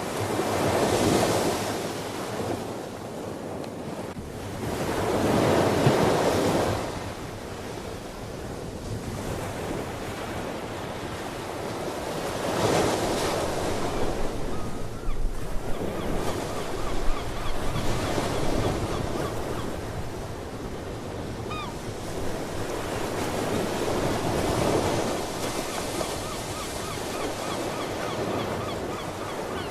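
Ocean waves breaking and washing on the shore, the rush swelling and fading every several seconds. Faint short calls of sea birds come through in the second half.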